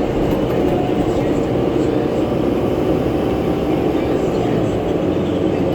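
Inside a 2011 New Flyer C40LF transit bus: the bus's steady running noise, with a steady humming whine from its fan, a sound that strikes the rider as weird.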